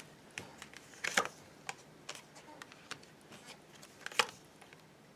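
Tarot cards being handled: scattered light clicks and taps, with two short swishes of card on card about a second in and again about four seconds in.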